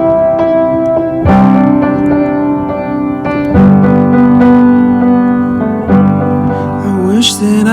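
Background music: piano chords struck every second or two and left to ring, with a voice beginning to slide in near the end.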